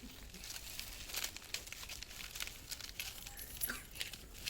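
Faint crinkling and rustling with scattered light clicks as dry cooking ingredients are handled.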